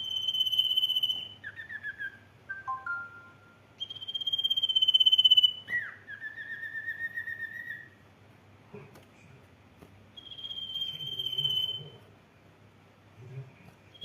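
Sirtu songbird singing: long, clear, slightly falling whistled notes, three of them, with short stepped notes and a rising whistle that levels off between them.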